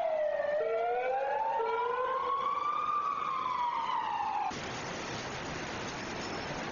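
Emergency-vehicle siren wailing, its pitch sliding slowly down, then up, then down again, and cut off abruptly about four and a half seconds in. A steady rushing noise follows.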